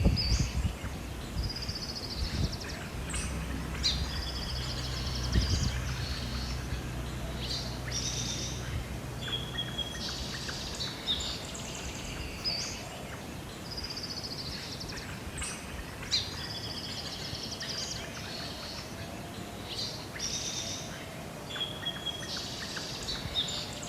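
A songbird singing, repeating the same high phrase of quick trills and chirps roughly every eight seconds.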